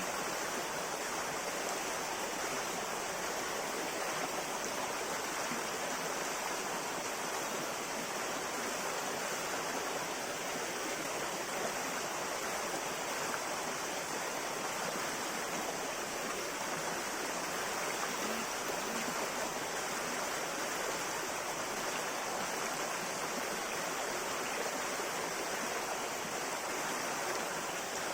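River water flowing and rushing steadily, an even hiss with no break or change.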